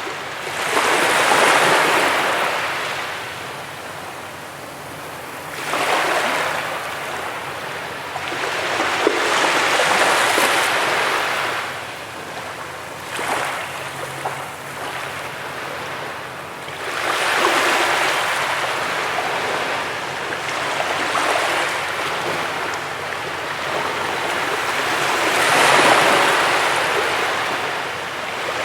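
Sea waves breaking on a beach: the surf swells up and falls back in long surges every few seconds.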